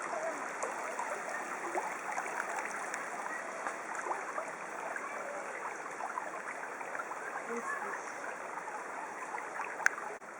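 Stream water flowing steadily over rocks, with one sharp click near the end.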